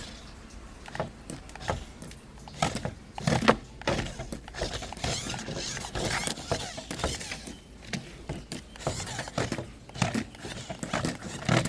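Irregular clicks and knocks of hard objects being handled, a few loud taps standing out among lighter ones.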